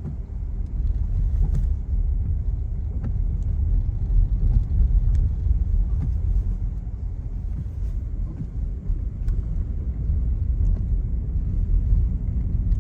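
A car driving, heard from inside the cabin: a steady low rumble of road and engine noise, with a few faint clicks.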